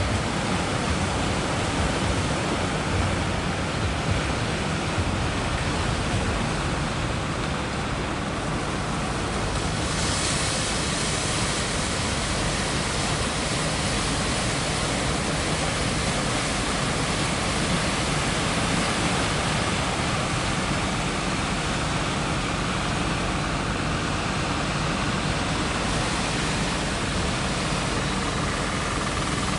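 Steady rushing noise of sea surf and fast flood water pouring through a river-mouth inlet, with no break in it and a hiss that grows brighter about ten seconds in.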